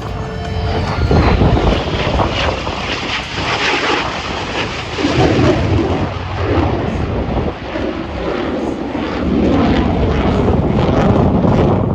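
Jet aircraft flying past, a loud rushing engine noise that swells and eases several times.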